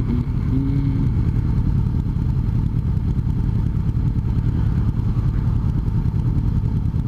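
Honda CBR500R's parallel-twin engine and exhaust running steadily while riding, heard from the rider's position.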